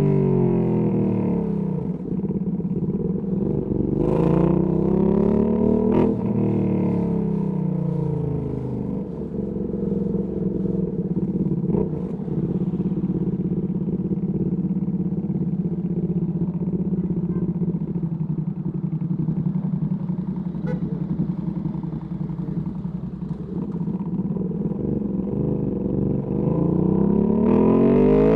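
Ducati Panigale V2S V-twin through a Termignoni exhaust: the revs drop at the start, climb and fall again a few seconds in, then hold at a steady low note for most of the time before climbing again near the end.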